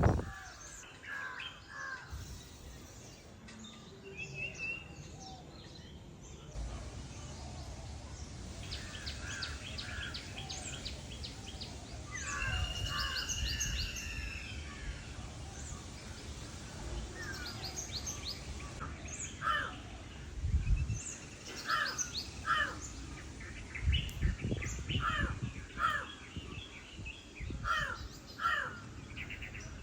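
Birds calling and chirping, with short repeated calls that come thicker in the second half. A low rumble on the microphone comes and goes underneath.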